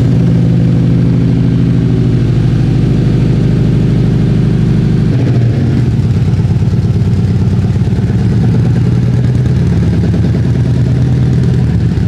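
Subaru WRX's flat-four boxer engine idling steadily just after start-up; the idle shifts slightly about five seconds in. The mechanic judges the uneven note a misfire rather than normal boxer rumble.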